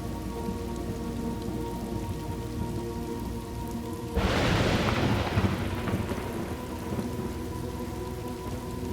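Thunderstorm ambience: steady rain with a sudden crack of thunder about four seconds in that fades into a rumble over the next couple of seconds. Soft held tones sound underneath the rain.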